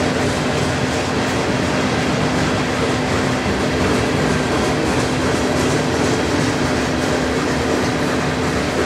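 Covered hopper cars of a long freight train rolling past: the steady noise of steel wheels running on the rails, with a steady low hum underneath.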